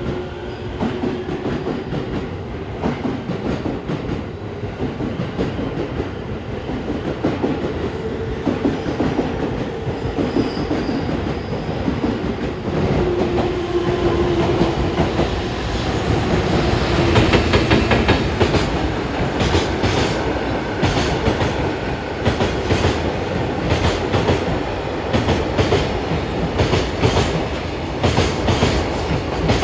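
A JR Freight container train, an EF210 electric locomotive hauling Koki container flat wagons, running past at speed with a continuous rumble. Its wheels clatter over the rail joints in a clickety-clack that grows denser and sharper in the second half.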